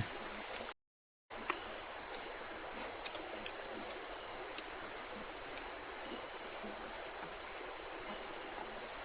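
River water running with a steady rush under a continuous high-pitched insect drone, with a short high chirp repeating about once a second. The sound cuts out completely for about half a second near the start.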